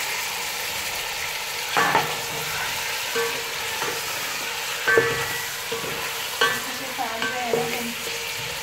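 Raw chicken sizzling in hot oil in a pan, just added, while it is stirred. A spoon or spatula knocks against the pan several times, the loudest about two seconds in and again about five seconds in, each knock ringing briefly.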